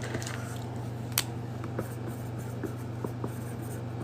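A few light clicks and small handling noises, the sharpest about a second in, over a steady low hum.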